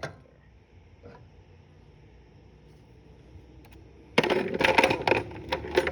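A bucket of tools and small metal parts bumped and nearly tipped over, the pieces inside clattering and clinking together for about two seconds near the end. A single click sounds at the very start.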